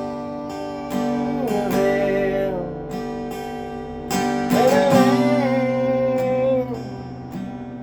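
Acoustic guitar music: strummed chords ringing under a melody line that slides and bends in pitch, with new strums about a second in and again about four seconds in.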